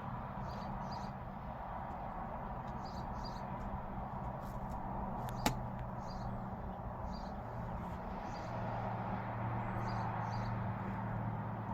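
A steady low hum with a haze of background noise, and short high chirps repeating throughout, like small birds. There is a single sharp click about five and a half seconds in.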